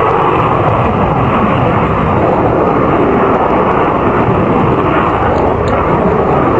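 Loud, steady jet noise from a single-engine F-16 fighter's Pratt & Whitney turbofan as it flies its display.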